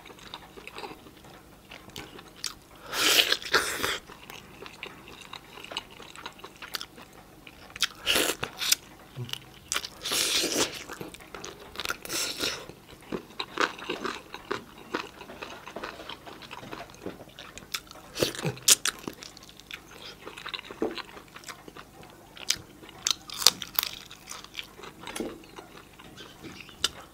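Close-miked mukbang eating sounds: a person biting and chewing roast chicken and rice eaten by hand, with wet mouth clicks and several louder bites spread through.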